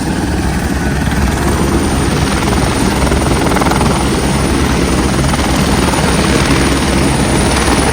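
Helicopter running close by, a loud steady rotor chop and engine noise that grows a little louder over the first couple of seconds.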